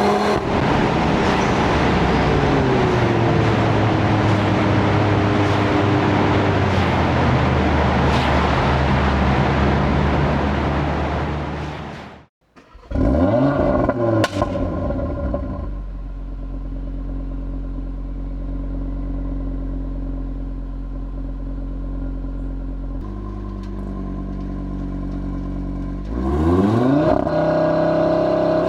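Audi RS3's 2.5-litre turbocharged five-cylinder engine driven hard, its pitch falling and rising through the gears. The sound cuts out briefly about twelve seconds in, then comes back with a rev, settles to a steady, quieter run for about ten seconds, and revs up loud again near the end.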